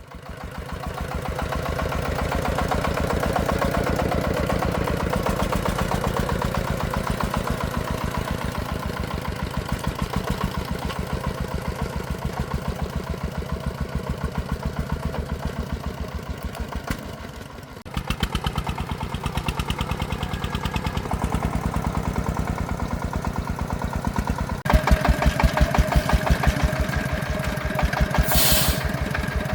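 Single-cylinder diesel engine of a công nông agricultural vehicle running with an even, rapid beat. Its sound changes abruptly twice, and near the end there is a brief hiss.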